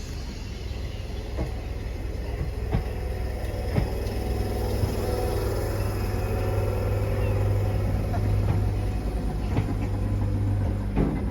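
British Rail Class 320 electric multiple unit running into the platform, a steady low hum growing louder, with scattered knocks and a wavering whine in the middle range.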